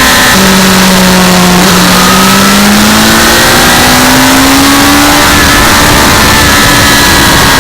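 Honda CBR sport motorcycle engine running under way. Its pitch drops about half a second in, then climbs slowly and steadily as the bike accelerates, over a loud even rush of wind noise.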